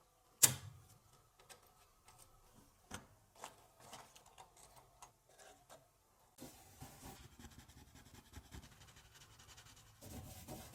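A single sharp knock, then scattered lighter clicks and taps, with a faint steady hiss setting in past the halfway point.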